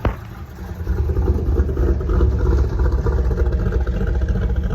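A car's engine running as it rolls in close. It is a low, steady sound that swells about a second in and then holds.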